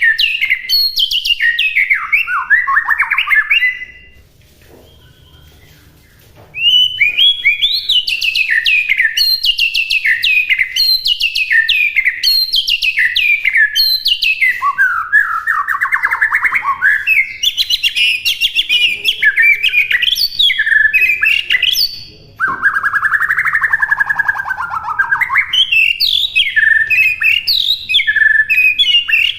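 White-rumped shama singing a long, varied song of rapid whistled and chattering phrases, with a pause of a couple of seconds about four seconds in and a short break later on.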